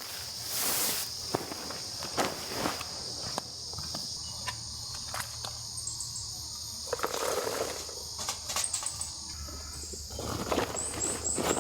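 Insects droning steadily at a high pitch, with faint short bird chirps a few times. Over it come scattered clicks and rustling, heavier twice in the second half, like footsteps and gear being handled.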